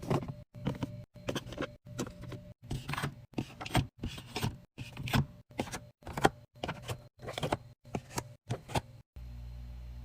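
Rapid taps, clicks and knocks of food containers and packages being handled and set down while a fridge is stocked, in short pieces with abrupt breaks between them. About nine seconds in, the knocking stops and a steady low hum takes over.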